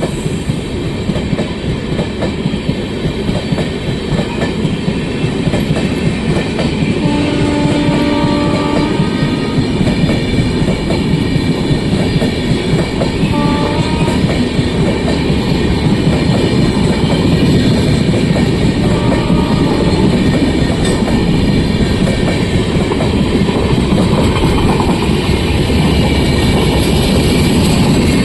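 Indian intercity express train running through a station at speed: a steady loud rumble and clatter of wheels on rail, growing slightly louder. The horn sounds a blast of about two seconds roughly seven seconds in, with short toots near thirteen and nineteen seconds.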